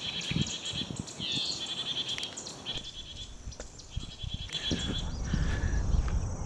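A small bird singing short, fast trills, each about a second long, repeated with brief pauses. A low rumble runs beneath and grows stronger near the end.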